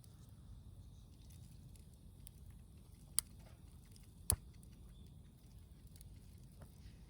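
Wood campfire crackling: scattered faint ticks and two sharp pops about a second apart, over a low steady rumble.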